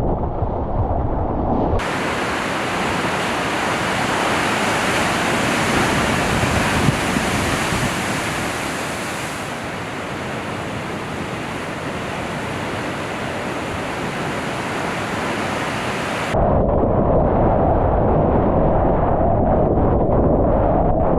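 Ocean waves and whitewater rushing, mixed with wind buffeting the microphone. About two seconds in the sound changes abruptly to a brighter, hissier rush, and about sixteen seconds in it drops back to a deeper wind rumble.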